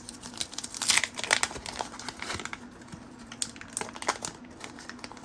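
Crinkling of a 1990 Fleer basketball card pack wrapper as it is handled, in irregular crisp rustles, loudest about a second in.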